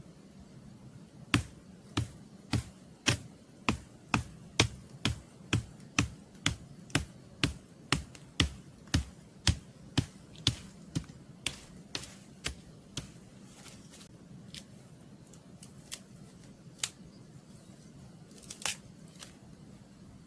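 A series of sharp knocks, evenly paced at about two a second, growing weaker and stopping about thirteen seconds in, then a few scattered clicks.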